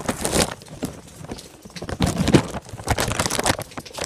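Footsteps of a person walking or running, mixed with the crinkling of a plastic bag rubbing over the recording iPad.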